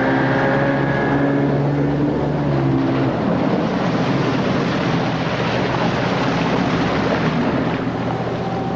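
Motorboat engine running over rushing water and wind; the engine's steady hum drops out about three seconds in, leaving a loud, even wash of water and wind.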